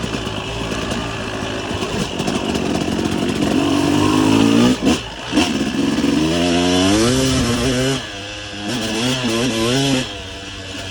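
Motocross dirt bike engine under way, revving up and easing off repeatedly so its pitch climbs and falls with the throttle. About five seconds in it cuts out briefly twice, and the revs drop sharply near the end.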